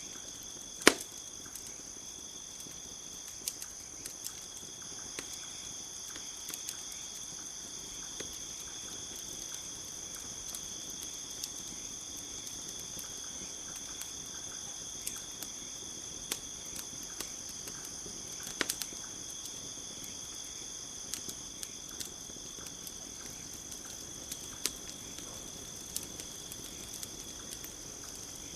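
Campfire crackling, with scattered sharp pops; the loudest comes about a second in. Underneath, crickets keep up a steady high chirring.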